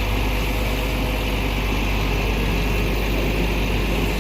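Heavy diesel engine idling steadily at low revs.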